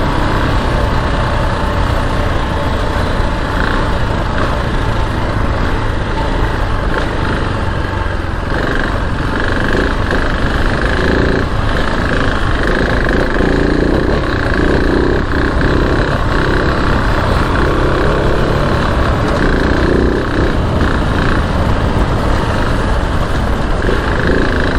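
KTM 690 Enduro R's single-cylinder four-stroke engine running steadily as the motorcycle is ridden along a trail.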